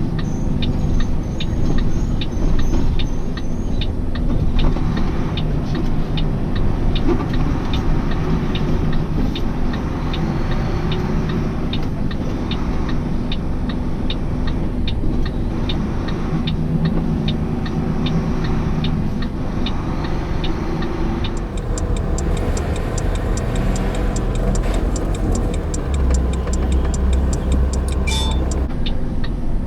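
Semi truck engine running inside the cab, with a turn signal ticking about twice a second. About two-thirds of the way through the engine note deepens and grows louder.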